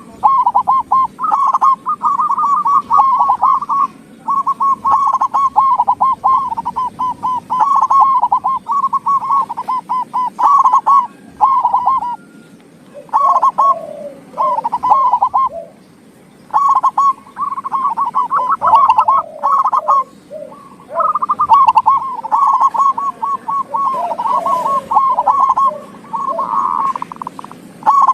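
Zebra dove (perkutut) cooing: phrases of rapid staccato notes, each a couple of seconds long, repeated with short pauses, with a lower second voice joining in at times from about halfway through.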